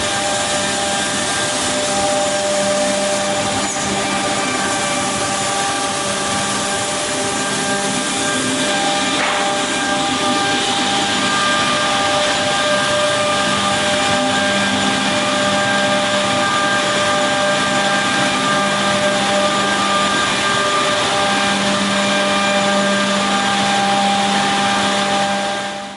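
OTT Tornado Top edgebander running, its motors and cutters giving a steady machine noise with several steady hum tones; it fades out near the end.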